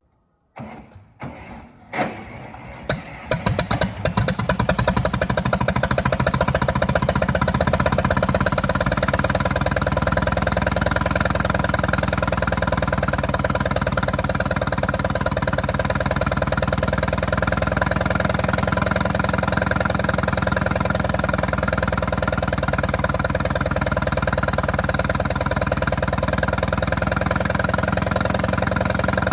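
A vehicle engine starts about three seconds in and then runs steadily at idle, with a fast, even firing beat.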